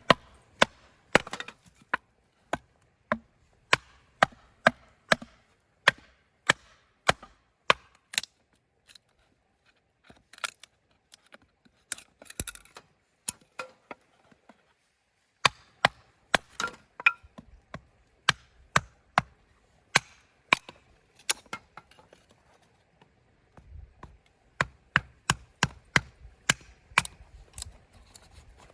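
Firewood being chopped: repeated sharp strikes of a blade into wood, about two a second, with a couple of short pauses.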